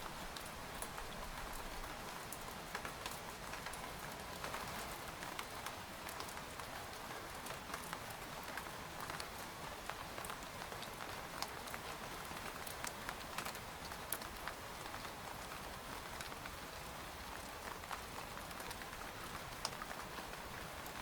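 Rain falling on a tent's fabric: a steady patter with many individual drops ticking sharply and irregularly.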